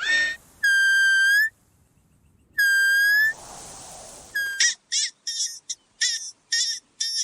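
Animal calls: two long, steady, high whistle-like calls, then a quick series of six or seven short calls.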